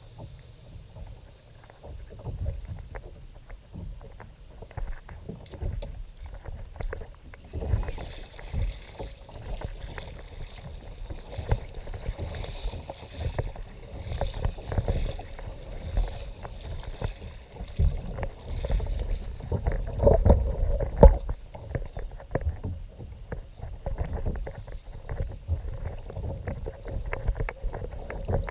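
Kayak moving on the water: water splashing and lapping against the hull, with frequent small knocks and a low rumble, growing livelier about a third of the way in.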